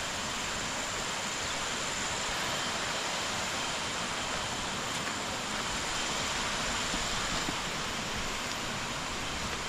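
Waterfall and stream water rushing, a steady even hiss with no letup, with a faint thin high tone held above it.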